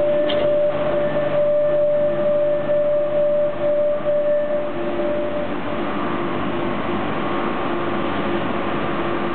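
Civia electric commuter train pulling slowly out of the platform, its running noise a steady haze with held electric tones. The higher tone drops out about halfway through.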